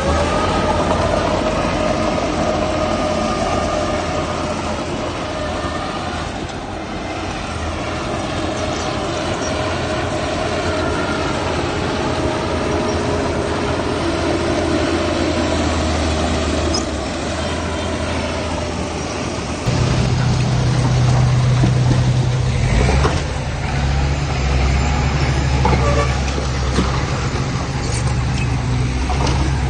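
Heavy vehicle engine running steadily. About two-thirds of the way through, the sound changes suddenly to a louder, deeper engine hum.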